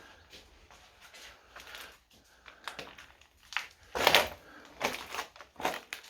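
Irregular knocks and crunching clatter, a few scattered sharp strikes that get louder in the second half.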